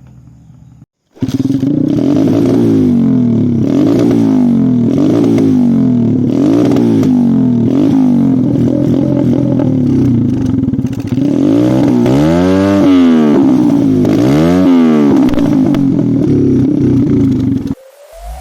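Thumpstar 125 pit bike's small single-cylinder four-stroke engine revving up and down over and over, with a few bigger, higher rev swells later on. It starts after a brief silent gap about a second in.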